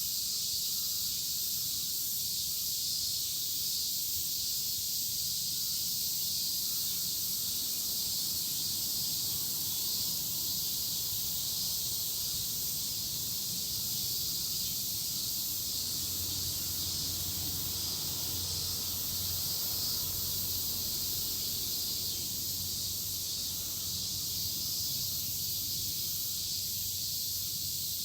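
A dense chorus of cicadas: a steady, high-pitched shrill buzz with no break. A faint low hum joins about halfway through.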